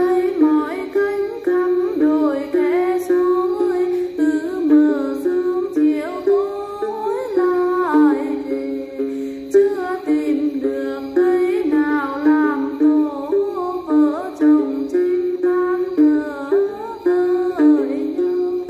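Hát then: a đàn tính gourd lute plucked in a steady repeating figure, with a voice singing the melody over it in gliding, ornamented lines.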